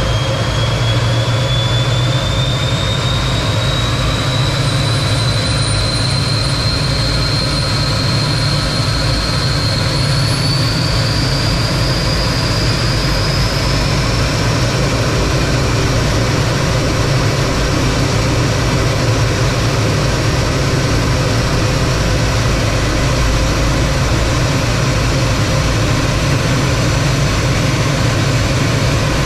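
T-33 jet trainer's turbojet engine running with a steady low rumble and a thin high whine; the whine climbs slowly in pitch over the first fourteen seconds or so as the engine speeds up, then holds steady.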